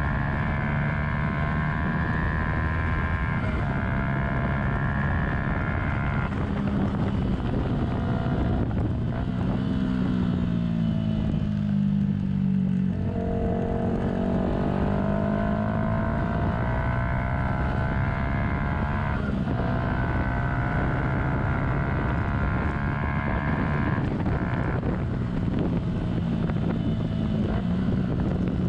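A 2015 Yamaha YZF-R125's 125cc single-cylinder four-stroke engine running under way at steady revs. About ten seconds in the pitch falls as the bike slows, then climbs again as it accelerates, with a few brief breaks in the engine note. Wind buffets the helmet-mounted camera's microphone.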